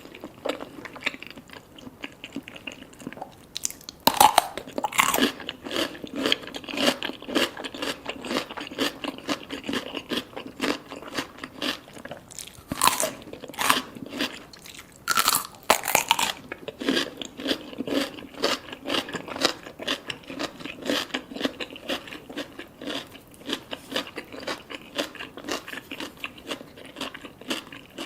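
Close-up eating sounds: salmon sashimi with tobiko roe and sea grapes being bitten and chewed, a steady run of wet crunching and small crackling pops. Louder bites come about four seconds in and again around the middle.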